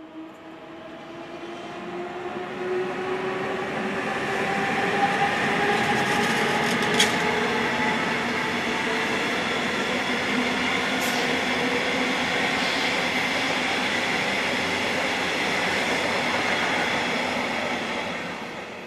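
Double-deck electric passenger train passing close by on the station tracks, with steady wheel-on-rail running noise and two sharp clicks. It grows louder over the first few seconds and fades near the end.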